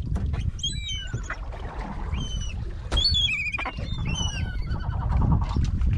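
Birds calling: a run of short, high calls, some gliding and one warbling, over a steady low rumble of the boat and wind, fading out about four and a half seconds in.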